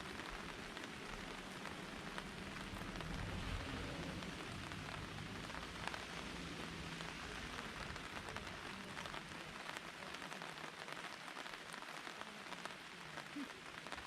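Steady rain falling, a dense patter of many small drop ticks. A low rumble underneath fades out about nine seconds in.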